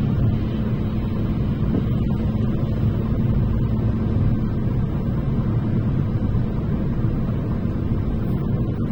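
Steady low rumble of road and engine noise inside a car cruising on the motorway, with a faint steady hum.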